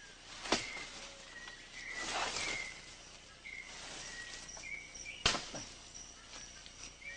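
Rainforest ambience with short, repeated bird chirps, broken by two sharp knocks, one about half a second in and one about five seconds in.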